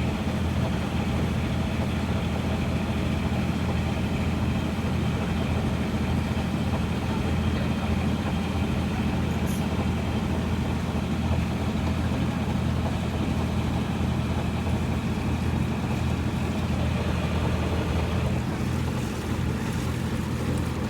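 Boat engine running steadily, a low even hum that holds the same level throughout.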